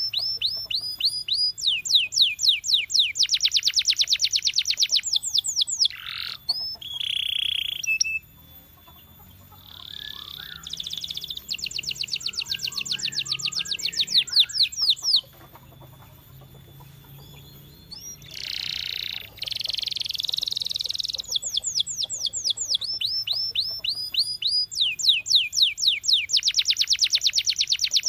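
Domestic canary singing: long, fast trills of rapidly repeated sweeping notes, broken by two short pauses, one about a third of the way in and one just past halfway.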